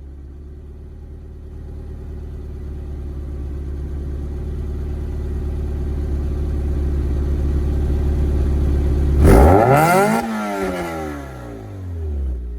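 Nissan S13 Silvia's SR20DE inline-four idling steadily through its exhaust, then one sharp throttle blip about nine seconds in: the revs climb quickly and fall back to idle over the next two to three seconds on a closed throttle.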